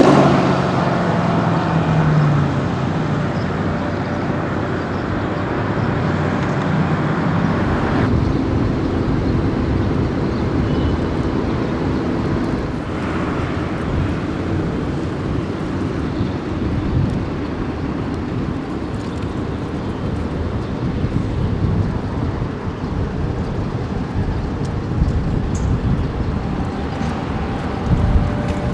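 Mercedes-AMG GT S with a 760 hp PP-Performance tune, its twin-turbo V8 loud at first and dying away over the first two seconds. It is followed by a steady low rumble of the car driving on.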